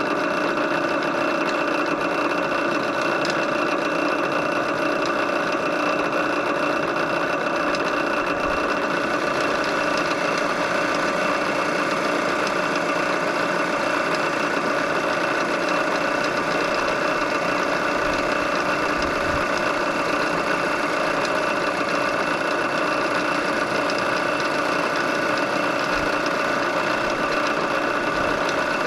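Drill press motor running steadily at about 850 to 950 RPM, a constant whine with a mechanical hum, while a 7/8 bit drills through wood.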